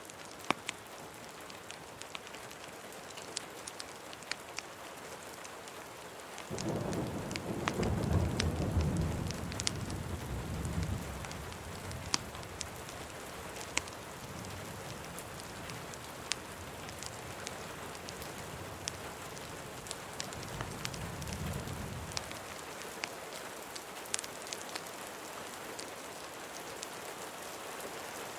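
Steady rain with scattered sharp fireplace crackles, and a low rumble of thunder that starts suddenly about six seconds in, swells, and dies away over some fifteen seconds.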